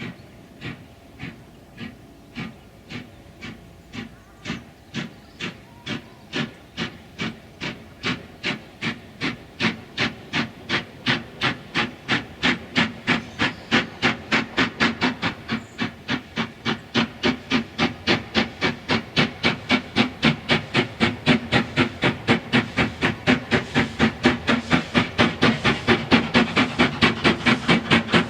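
Steam locomotive getting under way: its exhaust chuffs quicken from under two a second to about four a second and grow steadily louder.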